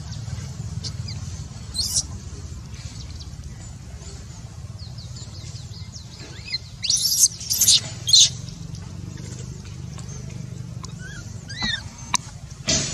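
High-pitched animal squeals and chirps over a steady low rumble. The calls come in a loud cluster of several short squeals about seven to eight seconds in, and again briefly near the end, and a sharp click comes just before the end.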